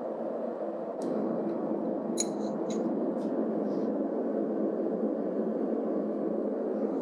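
A portable generator runs steadily in the background with a low drone. About one to four seconds in come several light, ringing metallic clinks, like steel tapping steel.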